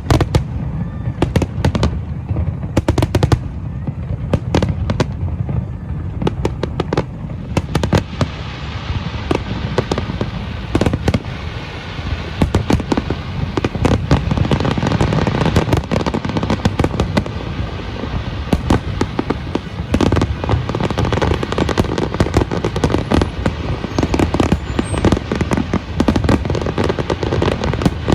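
Fireworks bursting in quick succession, dense booms and bangs with crackling that thickens into a near-continuous barrage from about eight seconds in.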